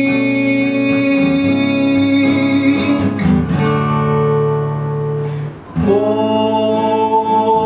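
A man singing long held notes over a strummed acoustic guitar. There is a brief break about five and a half seconds in, then a new sustained note that bends up slightly.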